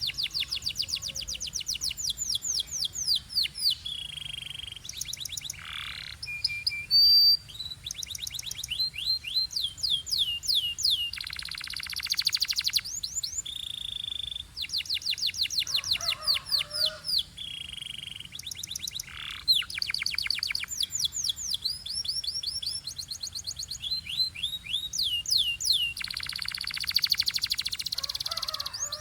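Domestic canary singing a continuous song of fast trills made of rapidly repeated falling notes, broken up by short held whistled tones.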